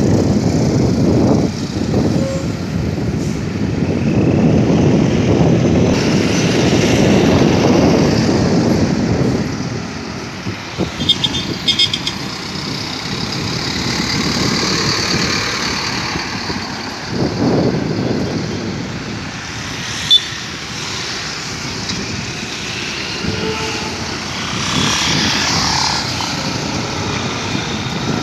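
Heavy trucks passing at speed on a highway, their engine and tyre rumble swelling and fading as each one goes by. The loudest pass comes over the first several seconds, a few short sharp sounds come about halfway, and further trucks pass later on.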